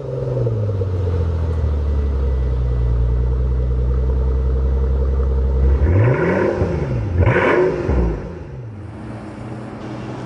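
Mercedes-Benz S65 AMG's twin-turbo V12 just after start-up, its idle settling slightly lower at first, then two quick throttle blips that rise and fall about six and seven and a half seconds in, after which it drops back to a quieter steady idle.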